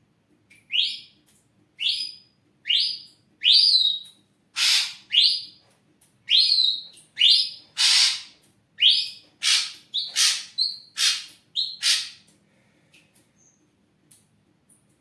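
Ashy drongo singing: a run of about fourteen loud, scratchy notes, each sweeping upward, a little under one a second, stopping about twelve seconds in.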